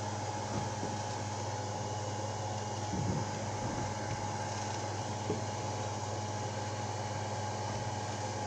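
A steady mechanical hum with an even hiss and a faint high whine, unchanging throughout; no firework bangs.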